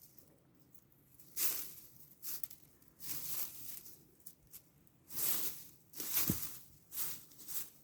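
A cat pawing and tearing at grass: a string of irregular scratchy rustles, with a brief low thump about six seconds in.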